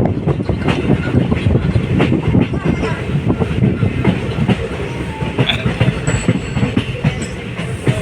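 Train of ICF passenger coaches running along the track: a steady rumble with rapid, continuous wheel clatter over the rails.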